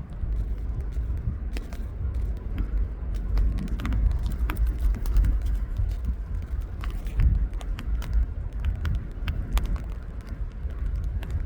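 Wind buffeting the microphone outdoors: a gusty low rumble that swells and dips, with scattered faint ticks.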